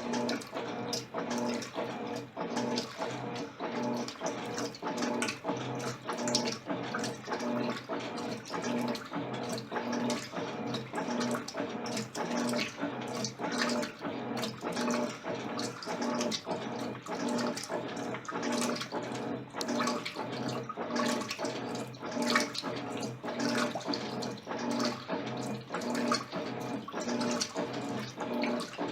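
Electrolux LTC10 washing machine washing on its jeans program: the motor hums in regular pulses about one and a half times a second while the water in the drum sloshes.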